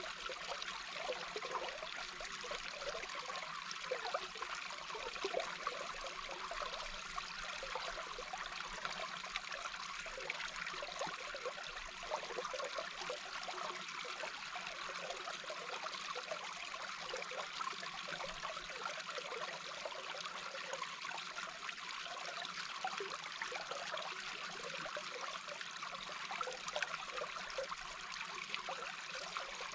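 A small brook flowing, heard underwater: a steady rushing hiss with a constant flicker of small bubbles and gurgles.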